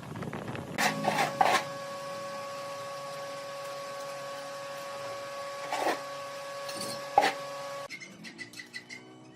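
Woodworking lathe running with a steady whine. There are short scraping bursts of the tool on the wood about a second in and twice more later, and the whine cuts off suddenly near the end.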